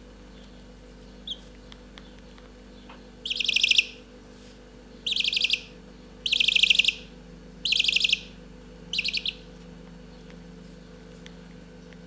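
Domestic chicks about two weeks old giving the contented trill, a rapid 'pyoro-pyoro' warble: a single short peep about a second in, then five quick trills about one and a half seconds apart. This trilling is the call of a chick that is content and seeking attention.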